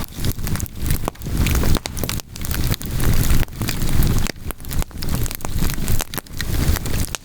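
Log campfire crackling, with irregular sharp pops over a low, uneven rumble.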